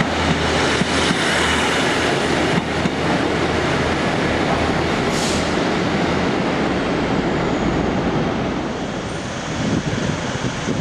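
A passenger train running along the track close by: a steady, loud noise of wheels and traction with a low hum, easing slightly near the end, with a few short clicks from the wheels.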